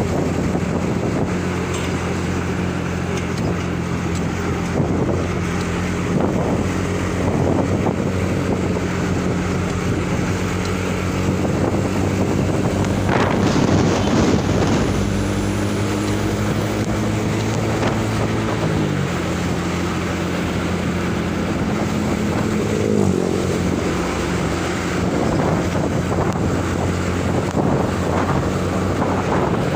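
A laden truck's engine running under way, with road and wind noise; the engine note shifts pitch twice in the second half.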